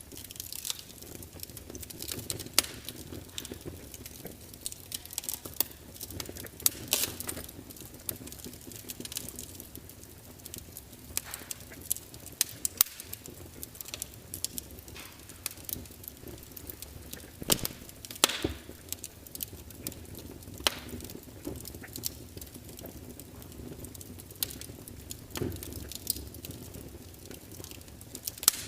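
Log fire burning, with irregular sharp crackles and pops over a low steady hiss and rumble of the flames.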